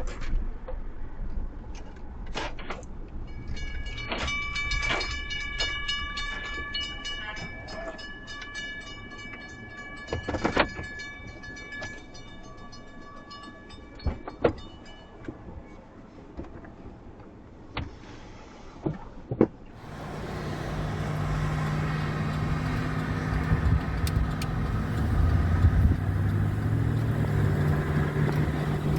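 Empty coal train's steel hopper-car wheels rolling past, clicking over rail joints, with high-pitched wheel squeal that comes and goes for about twelve seconds. A few sharp knocks follow. Then, from about two-thirds of the way in, a steadier low rumbling hum.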